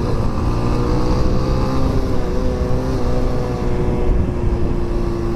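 Motorcycle engine running steadily at cruising speed, with heavy wind and road rumble on the rider's microphone.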